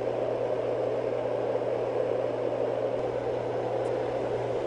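Marpac SleepMate 980A white noise machine running on its high setting: a steady, even rush of air from its internal fan, with a low steady hum underneath.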